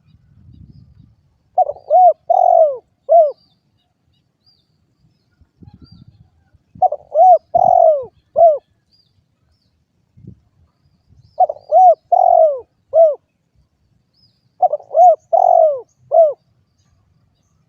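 Spotted dove (derkuku) cooing: four repeated phrases of about four mellow arched coos each, a few seconds apart.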